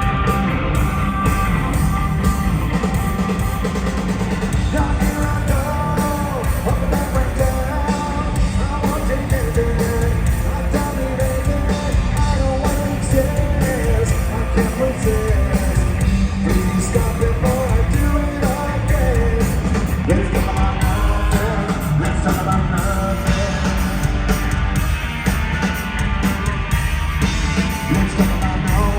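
Live punk rock band playing loud, with electric guitars, bass and drums under a shouted lead vocal.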